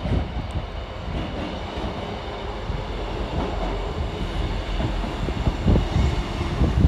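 Class 158 diesel multiple unit running into the station: a steady low rumble of engine and wheels on the rails, with a few knocks near the end.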